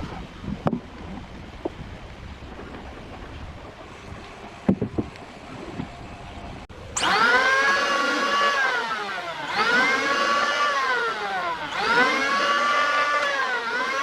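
A few light knocks, then about seven seconds in a power tool's motor starts and runs loud, its pitch rising and falling in repeated swells about every two and a half seconds, as if working through wood under load.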